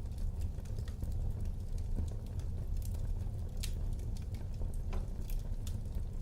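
Wood fire burning in a fireplace: a steady low rumble with scattered sharp crackles and pops, the strongest pop a little past the middle.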